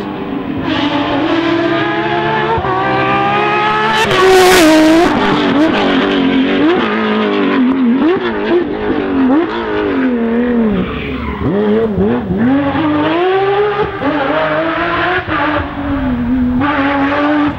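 Porsche rally car engine at full throttle on a rally stage, its pitch climbing for about four seconds and loudest about four seconds in. After that the revs rise and fall again and again as the car drives on.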